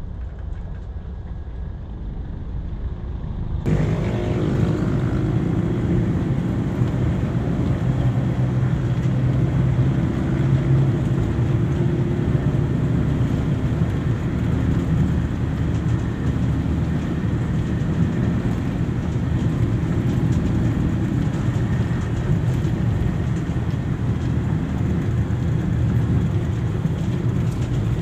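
A motor vehicle running steadily, a low rumble that comes in abruptly about four seconds in after a quieter opening.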